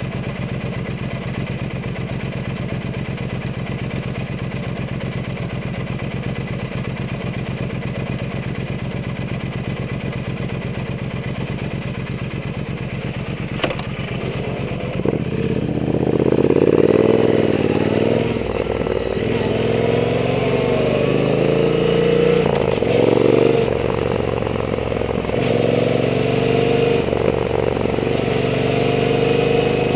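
Triumph Bonneville T120's parallel-twin engine through a Zard aftermarket exhaust, idling steadily, then, after a sharp click about halfway through, pulling away and revving up and down repeatedly through the gears.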